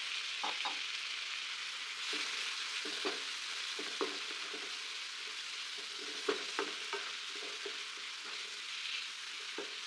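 Onion and green chilli masala frying in a nonstick pan with a steady sizzle, freshly loosened with the rinse water from the grinder jar. A wooden spatula stirs and scrapes through it, making scattered light knocks against the pan.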